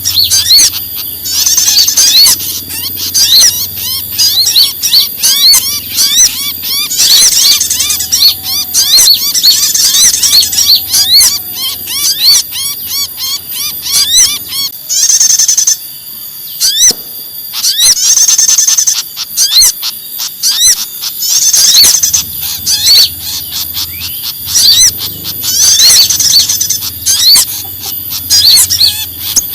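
Many small songbirds calling agitatedly at once in a bird-lure recording: a dense, loud jumble of rapid high chirps and short rising notes, swelling into louder bursts every few seconds. The mix combines noisy calls of small birds, tailorbirds and fantails, used to draw small birds in for trapping.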